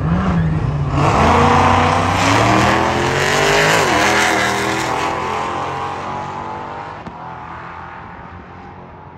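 Cars launching in a drag race, the engines accelerating hard with pitch climbing, a shift about four seconds in, then the sound fading as the cars pull away.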